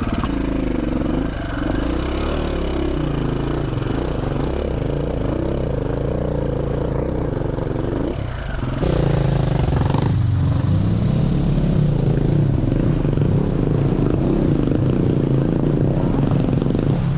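KTM 450 SX-F dirt bike's single-cylinder four-stroke engine running under constantly changing throttle, its pitch rising and falling, as it crosses a river. About nine seconds in, the sound suddenly turns duller and the low engine note gets louder.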